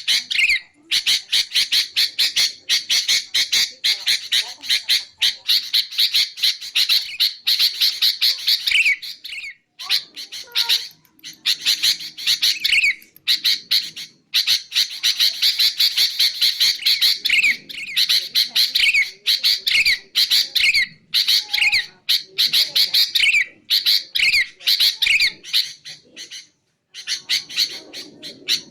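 Sooty-headed bulbul (kutilang) calling in long runs of rapid, harsh chattering notes, with a few brief pauses; a luring call.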